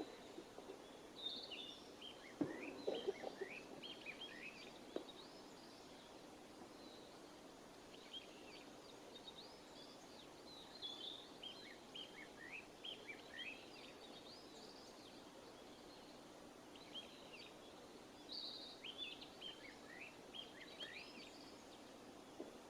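Faint wild birdsong: three spells of rapid, short chirping notes from small songbirds, with a couple of soft knocks about two and a half and five seconds in.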